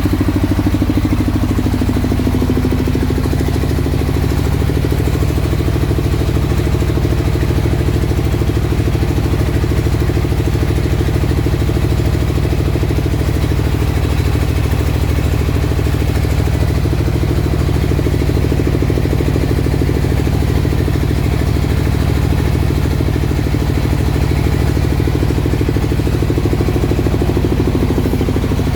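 Single-cylinder rice mill engine running steadily at a constant speed, with a rapid, even beat of firing strokes.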